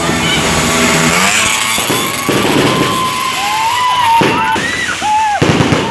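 Fireworks going off: a dense crackle with several whistling pitches that rise and fall away, and sharp pops near the end.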